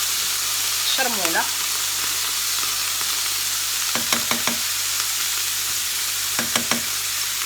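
Cuttlefish pieces and chermoula sizzling steadily in a hot frying pan as they are stirred, with two quick runs of knocks from a utensil on the pan about four and six and a half seconds in.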